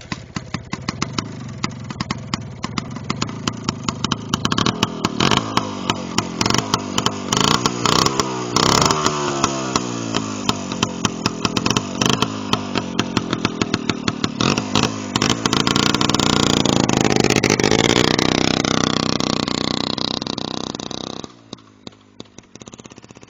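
Custom Minsk motorcycle's two-stroke single-cylinder engine revving up and falling back again and again, with many sharp crackles. It is loudest near the end, then drops away suddenly.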